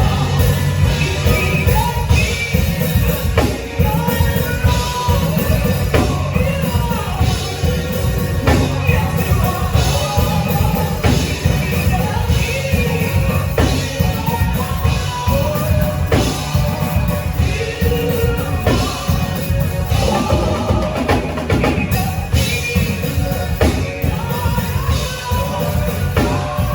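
Live band music with a drum kit keeping a steady beat under singing, its sung lines bending in pitch.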